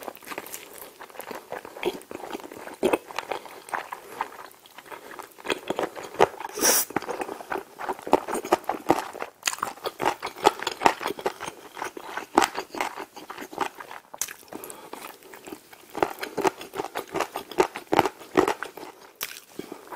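Close-miked biting and chewing of smoked chicken drumstick meat coated in creamy rosé sauce, pulled off the bone with the teeth. The chewing makes a dense run of short wet clicks throughout.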